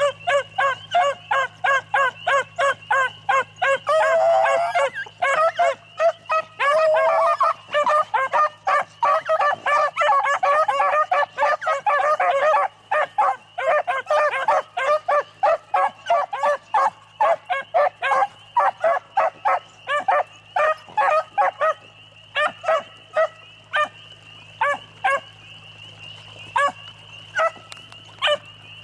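A pack of beagles baying as they run a rabbit's track: a dense chorus of rapid, overlapping barks that thins out to scattered single barks over the last third.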